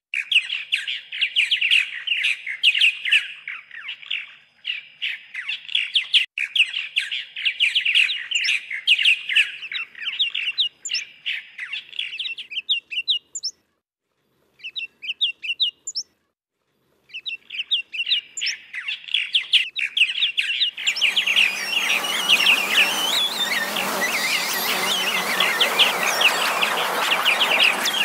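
Many birds chirping at once in a dense, rapid chatter that drops out briefly about halfway through and then resumes. About three-quarters of the way in, a steady rushing noise comes in under the chirping.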